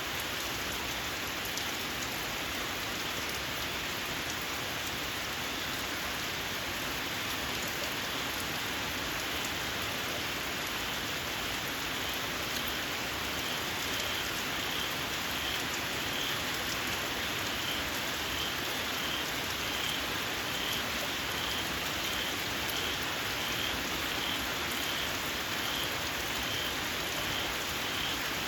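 Steady, heavy rain falling. From about halfway through, a small frog calls in a regular series of short, shrill, high notes, about one and a half a second.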